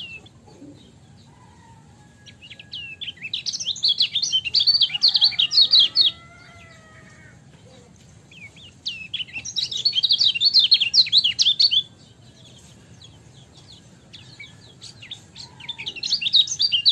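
Kecial kuning, a white-eye, singing in three loud bursts of rapid, chattering high notes, each lasting a few seconds, with softer scattered chirps in the pauses between.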